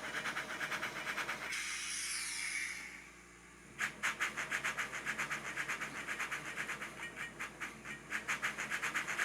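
Digitally reproduced steam-locomotive chuffing from a Soundtraxx Econami DCC sound decoder, played through a small sugar-cube speaker in the model's tender. The chuffs beat in a quick, even rhythm, broken about a second and a half in by a hiss, then a short lull, before the chuffing resumes at about four to five beats a second.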